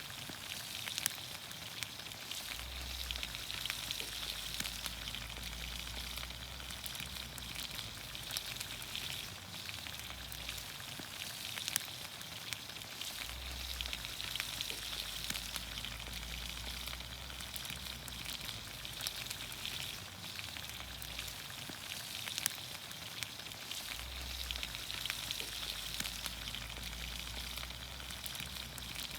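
Green beans, onions, carrots and potatoes sizzling in olive oil over a campfire: a steady high sizzle with frequent small pops. A low rumble comes and goes every several seconds.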